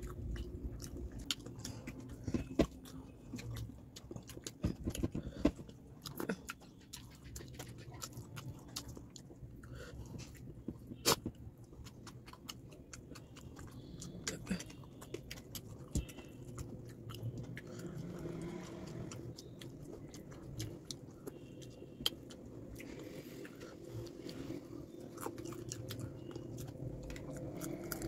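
Close-up chewing and biting as a man eats fish curry and rice with his fingers, with many scattered sharp clicks from his mouth and hand, a few louder than the rest.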